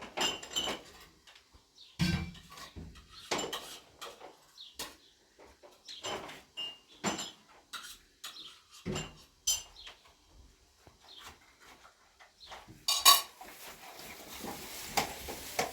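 Irregular clinks and knocks of dishes and utensils being handled, some with a short metallic or glassy ring. About 13 seconds in there is a louder knock, followed by a steady hiss.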